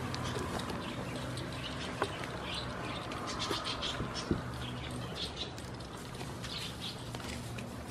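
Small birds chirping rapidly, with two light knocks and a steady low hum underneath.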